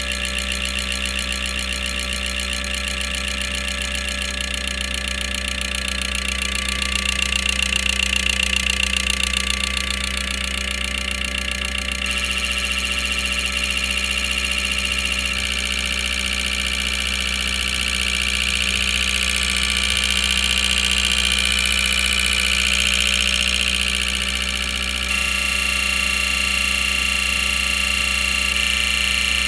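Car engine running steadily, with its tone changing abruptly a few times.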